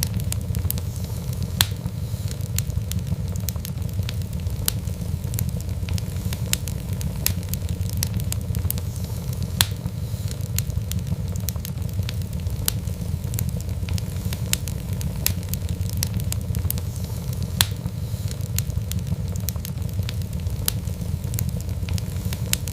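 Wood fire crackling: a steady low rumble of flames with frequent sharp pops and snaps at irregular intervals.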